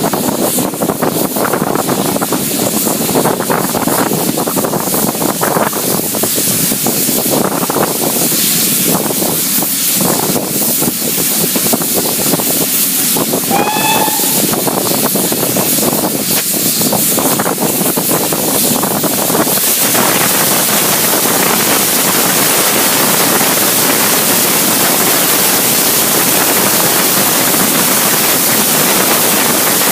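Steam train with a loud, rushing hiss and rattling rail noise, one short high-pitched tone about 14 seconds in, then an abrupt change about 20 seconds in to an even, steady hiss.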